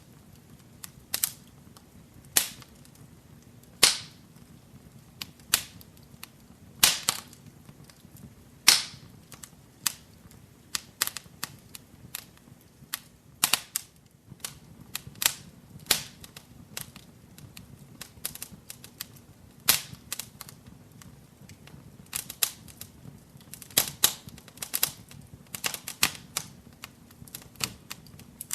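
Wood fire burning in a fireplace, crackling with irregular sharp pops, a few much louder than the rest, over a faint steady hiss.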